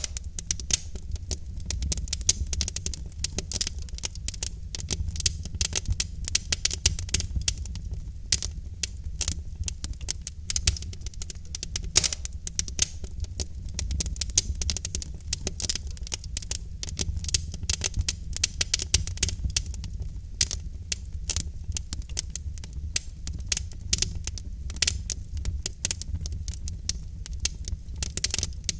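Wood fire burning logs in a fireplace, crackling with dense, irregular pops and snaps over a steady low rumble of the flames.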